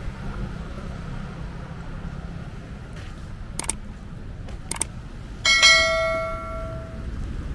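A bell struck once, near the end, ringing with a clear tone and bright overtones that die away over about a second and a half, over a steady low rumble.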